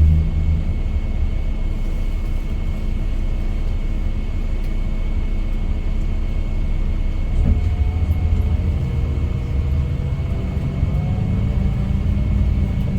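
Cabin rumble of a Scania K410IB coach on the move: the diesel engine and road noise run steadily. A single bump comes about seven and a half seconds in, after which the engine tone grows stronger and wavers slightly.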